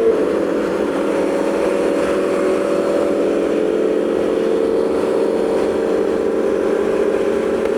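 Aprilia Tuono V4's V4 engine cruising at a steady speed, its note drifting only slightly, with wind noise over it.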